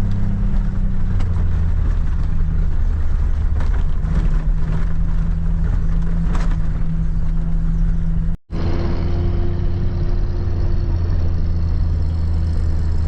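Vehicle engine running steadily at a low, even hum while driving, with a break of a fraction of a second about two-thirds of the way through.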